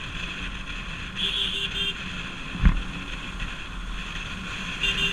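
Bajaj Pulsar RS200 motorcycle under way, its engine and road noise running steadily. A vehicle horn gives three short beeps a little over a second in and sounds again near the end, and there is one sharp thump about halfway through.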